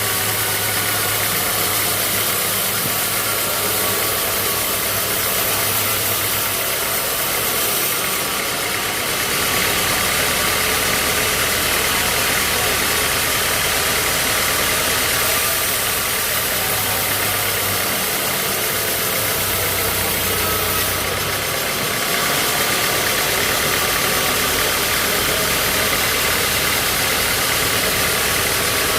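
Engine at a sawmill running steadily with a dense mechanical noise, its low hum shifting slightly a couple of times.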